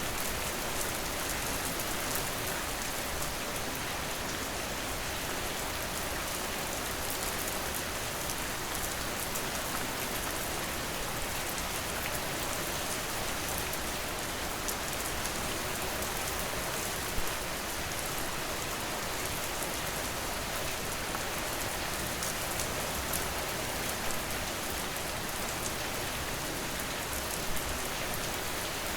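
Steady rain falling: an even hiss with a fine patter of individual drops, and two single louder drop taps, one about two-thirds of the way through and one near the end.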